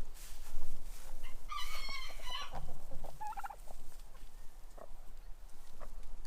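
Backyard poultry, chickens and turkeys, calling: a loud wavering call about a second and a half in, then a short rapid rattling call, with fainter clucks and movement around them.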